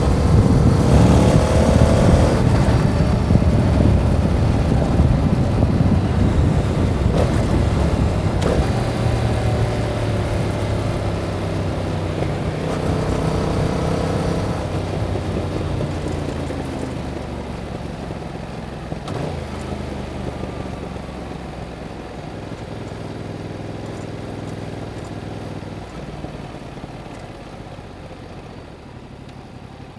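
A 2021 Yamaha MT-07's 689 cc parallel-twin running through its stock exhaust. It revs up several times in the first half, then eases off and winds down, growing quieter toward a steady low idle near the end.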